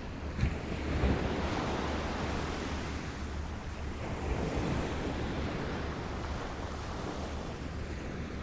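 Small waves lapping on a shore, washing in about a second in and again around four to five seconds, then easing back.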